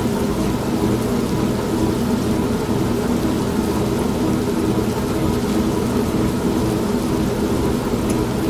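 An old washing machine running with a steady hum and churn, mixed with steady rain.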